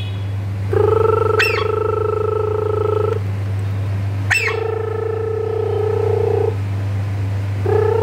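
A phone ringing: a steady buzzing ring tone about two seconds long, repeated three times with short gaps, with a quick sharp rising chirp twice.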